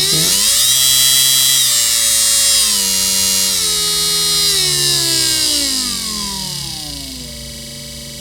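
Parkside cordless drill's DC motor running on a DC motor speed controller: it spins up with a rising whine, holds at a few steady speeds, then slows as the speed is turned down and its pitch falls step by step, with a constant high whine above it. It stops just after the end.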